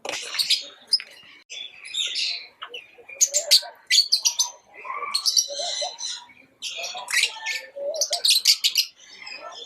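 Pet lovebirds chirping: quick runs of sharp, high chirps in repeated bursts with short pauses between them.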